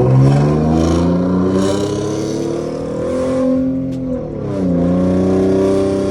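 Ford Mustang V6 with a muffler- and resonator-delete exhaust through a catted X-pipe, accelerating loud: the engine's pitch climbs for about three and a half seconds, drops at a gear change about four seconds in, then climbs again.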